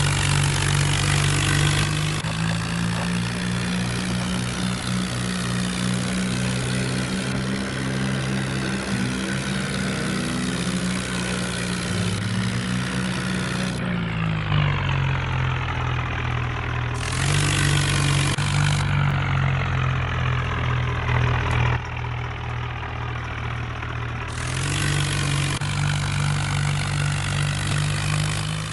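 Swaraj 963 tractor's diesel engine running, revved up about two seconds in and held at higher revs, then dropping back near the middle. The sound shifts abruptly several times, as between spliced clips.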